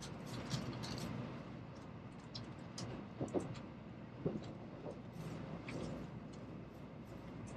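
Shinkansen bullet train heard from inside the passenger cabin as it pulls out of a station and gathers speed: a steady low rumble with scattered light clicks and creaks.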